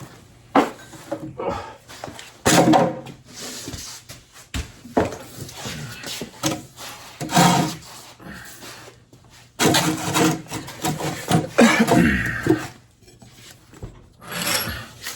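Irregular rubbing, scraping and knocking of motorcycle parts being handled on a bench, the loudest stretches about two and a half seconds in and again between about ten and twelve seconds.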